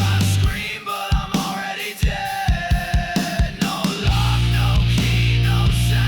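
Loud distorted grunge-style rock music with no vocals. The heavy low end drops out for about three seconds, leaving drum hits and guitar alone, then the full band comes back in about four seconds in.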